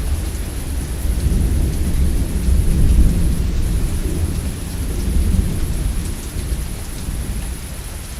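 Rolling thunder over steady rain: a long, deep rumble that swells to its loudest about three seconds in and fades away toward the end, with the even hiss of rainfall throughout.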